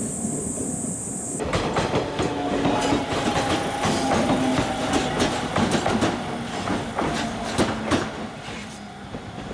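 Tram running on rails, with dense clattering clicks of the wheels over rail joints and a steady motor hum. The sound changes abruptly about a second and a half in, and the clatter is louder from there on.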